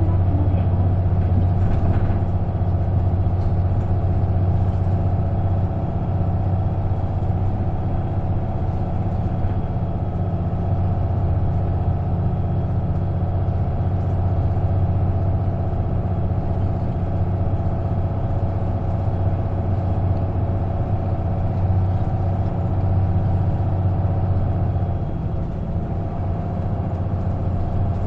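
Isuzu KK-LR233J1 non-step bus's diesel engine running steadily, heard from inside the cabin as a strong, even low hum.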